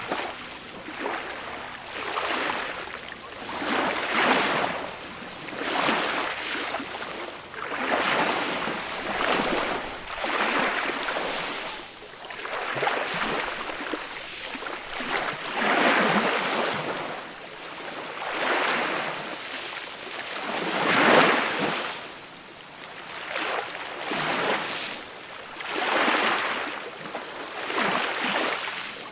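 Small, gentle sea waves breaking and washing up on a beach, a soft hiss that swells and falls back about every two seconds.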